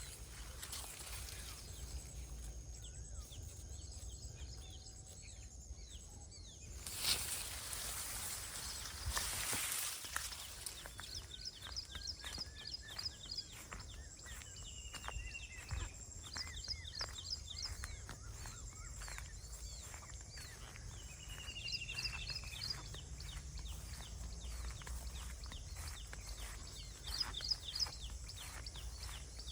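Birds chirping in repeated clusters of short calls, with a few brief falling whistles, over a steady low rumble of outdoor background noise. Two short louder surges of noise come about seven and nine seconds in, before most of the chirping starts.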